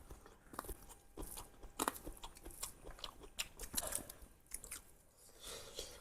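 Close-miked eating of spicy duck curry: irregular crunching, biting and chewing on duck meat and bone.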